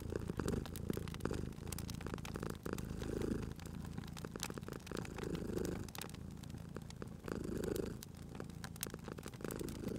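Domestic cat purring, swelling and easing about every two seconds with its breathing, over the scattered pops and crackles of a wood fire.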